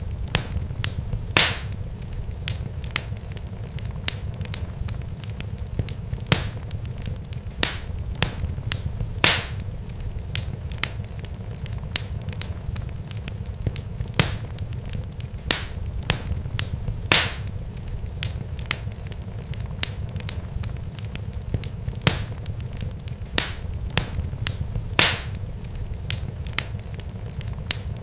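Irregular sharp pops and crackles, several a second with a louder one every few seconds, over a steady low rumble.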